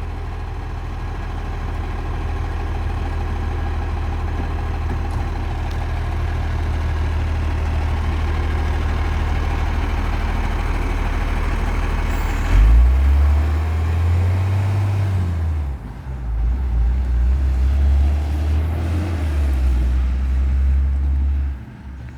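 Recycling truck's diesel engine idling steadily, then about halfway a short sudden hiss and the engine revs up and down in two surges, as it does when driving the hydraulic arm that lifts and tips a bin. The engine drops back near the end.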